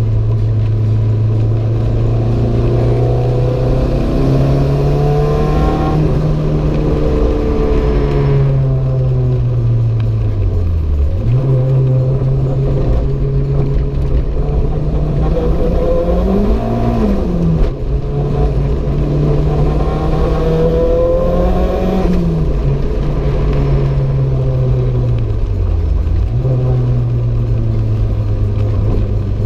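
Renault 5 GT Turbo's turbocharged 1.4-litre four-cylinder engine running hard through a lap. The engine note stays fairly steady, falls away sharply twice (about eleven seconds in and near the end) and climbs briefly twice in the middle.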